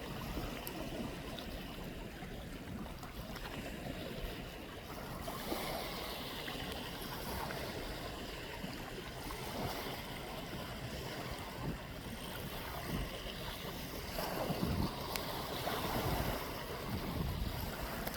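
Sea waves washing at the shore, with wind buffeting the microphone; the swell grows louder near the end.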